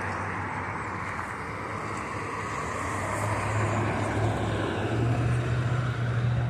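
Street traffic noise with a vehicle engine's low hum that grows louder and a little higher about five seconds in.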